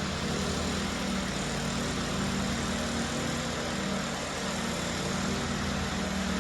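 Concrete power trowel's engine running steadily, with a low even hum, as its blades finish a fresh concrete floor topped with emery hardener.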